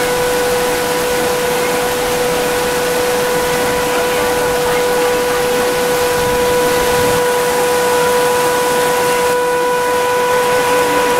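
Heavy rain pouring down in a steady hiss. Over it, one long unbroken high tone holds at a single pitch throughout, then slides downward just afterward.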